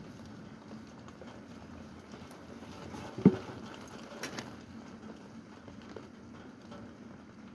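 Rain pattering steadily, with scattered drops ticking, and one loud low thump a little over three seconds in.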